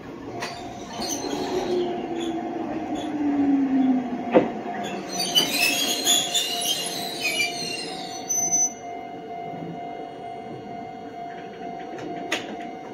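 Electric commuter train braking to a stop: its motor whine falls steadily in pitch, a sharp clack comes a little past the middle, and high wheel and brake squeal follows for about two seconds. The train then stands with a steady electrical hum.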